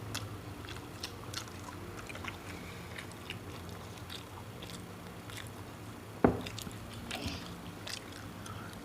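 Close-up eating sounds: people biting and chewing food, with small crunchy clicks scattered throughout. One louder, sharp sound stands out about six seconds in.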